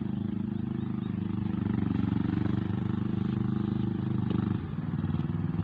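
A small engine running steadily with a fast, even pulse. Its pitch drops a little about four and a half seconds in.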